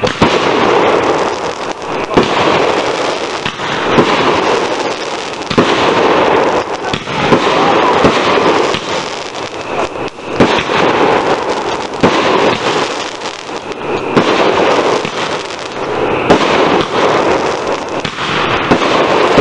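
Consumer aerial fireworks going off in a steady barrage: continuous crackling that swells and fades, with sharp bangs about once a second.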